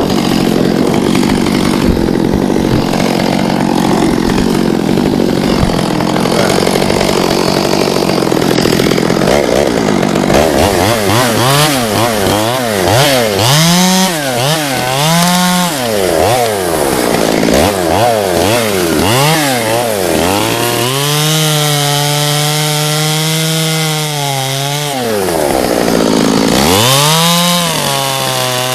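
Chainsaw engine running: a rough, steady note for about the first ten seconds, then revved up and down several times, held at high revs for a few seconds and revved again near the end.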